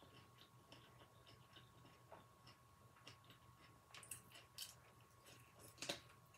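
Faint chewing and small wet mouth clicks from eating a veggie sushi hand roll, with one sharper click near the end.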